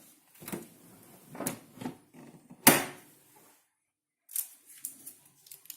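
A few scattered light clicks and knocks, the sharpest about two and a half seconds in.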